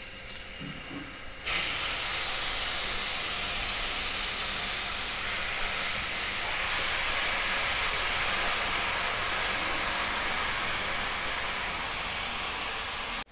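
Wet grated bottle gourd sizzling in hot ghee: a loud, steady hiss that starts about a second and a half in and cuts off suddenly near the end.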